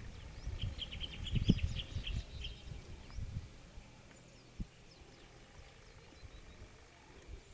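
A small bird gives a quick run of about eight high chirps between half a second and two and a half seconds in. Underneath are low thumps of footsteps and handling on dry soil, which fade after about three seconds and leave faint outdoor quiet.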